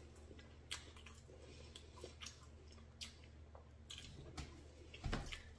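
A person chewing a soft beef-and-cheese pastry with the mouth close to the microphone: faint, scattered wet clicks and smacks, no crunch, and a soft low thump near the end.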